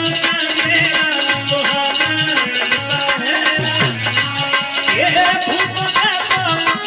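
Harmonium playing a folk melody in held reed tones, over a steady hand-drum beat and rattling percussion.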